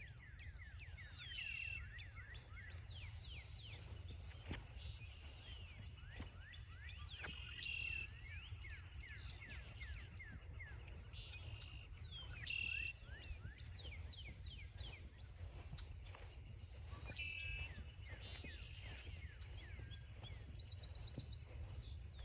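Birdsong from several birds in woodland: many short falling chirps throughout, with one brighter song phrase repeated about every five seconds. A steady low rumble lies underneath.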